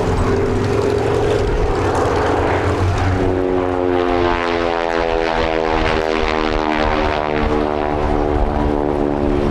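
North American Yale trainer's radial piston engine and propeller flying past, a steady drone whose pitch slides down as the aircraft passes.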